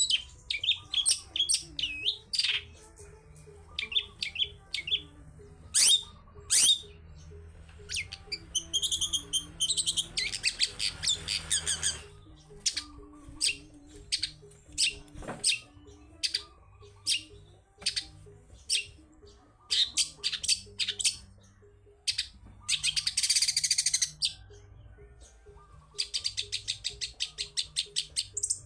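Long-tailed shrike (cendet) singing: a string of sharp chirps and whistles broken by fast chattering trills, ending in a quick run of rapidly repeated notes.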